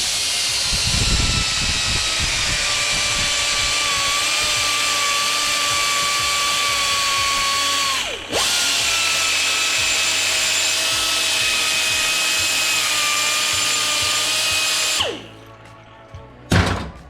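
High-speed rotary power tool running steadily with a high whine and hiss. About eight seconds in it stops briefly and spins down, then starts again, and it winds down with a falling whine near the end.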